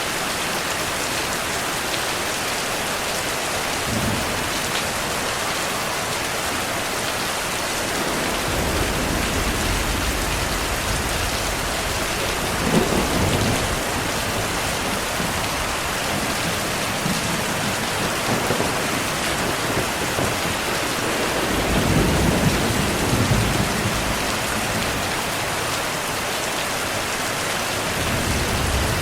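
Heavy rain falling steadily, with thunder rumbling several times: a low roll about a third of the way in, a sharper clap a little before the middle (the loudest moment), and a longer rumble past two-thirds of the way through.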